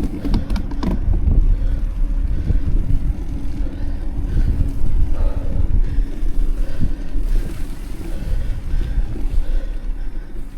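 Wind buffeting the microphone over the rumble of a mountain bike's tyres riding on a downhill path, with a faint steady hum and a few clicks near the start.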